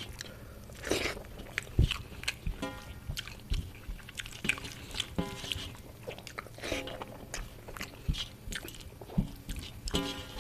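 Close-miked chewing of a mouthful of food, with many short crisp crunches and wet mouth clicks.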